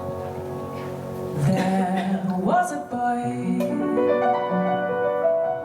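Music: a jazz standard played on piano and harp, with sustained chords and plucked notes.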